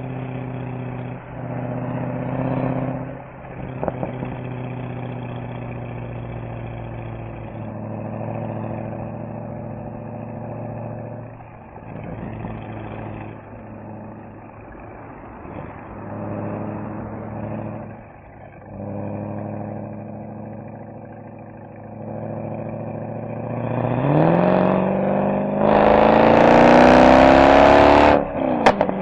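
Mercedes-AMG SL63's V8 exhaust at a steady cruise, easing off briefly several times. Near the end the revs climb steeply and loudly under hard acceleration, then break off with a sharp pop at an upshift.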